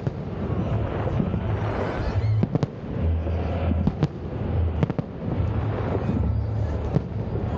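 Fireworks display: continuous crackling and rumbling bursts, with sharp bangs about two and a half, four, five and seven seconds in.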